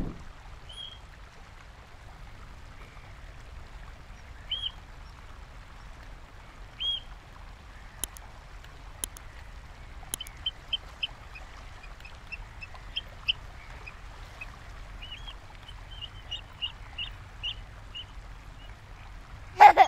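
Oystercatcher calling: single sharp, high piping notes a few seconds apart, then from about halfway through, quicker runs of short piping notes.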